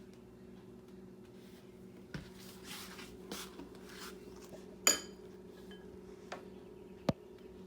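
Dishes and utensils clinking and scraping in a kitchen, with one bright ringing clink near the middle and a knock near the end, over a steady low electrical hum.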